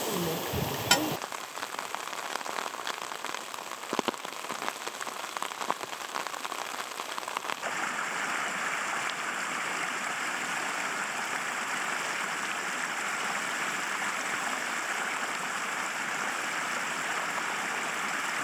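Rain falling, with separate drops ticking distinctly over a steady hiss for the first several seconds, then an even, steady rain hiss from about eight seconds in.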